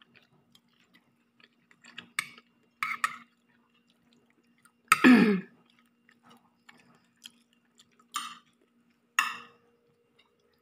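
Eating noises at a meal: a handful of short, sharp mouth sounds of chewing and lip smacks, the loudest about halfway through, over a faint steady low hum.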